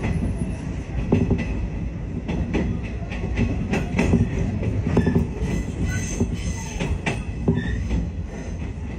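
Train running, heard from inside the carriage: a steady low rumble with frequent irregular clacks of the wheels over rail joints, and a few brief faint high wheel squeals.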